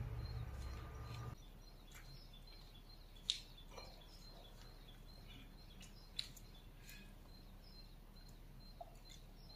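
Quiet outdoor background with small birds chirping on and off, and two short sharp clicks about three and six seconds in. A low hum stops about a second in.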